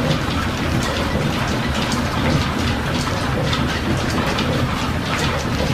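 Steam-driven workshop machinery running: a steady clatter of rapid, irregular clicks over a low rumble and a hiss.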